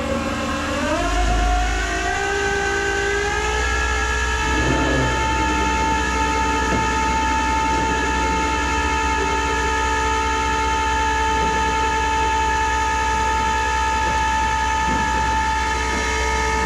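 Flatbed tow truck running at raised revs to power its hydraulics for loading a car: a steady mechanical whine that rises in pitch over the first three seconds, then holds.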